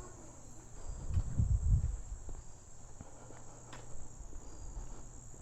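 Insects trilling in a steady, unbroken high-pitched drone. A low rumble swells and fades between about one and two seconds in, with a few faint clicks.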